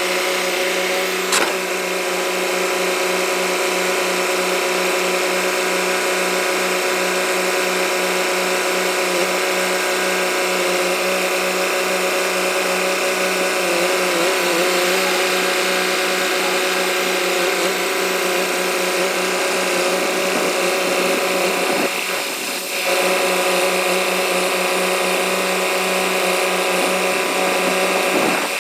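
Machinery running steadily with a geared mechanical whine, a set of fixed tones that hold throughout, dipping briefly about 22 seconds in.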